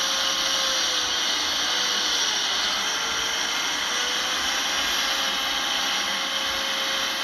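Heavy earthmoving machinery's diesel engine running steadily, with a faint whine that wavers slightly in pitch over a dense hiss.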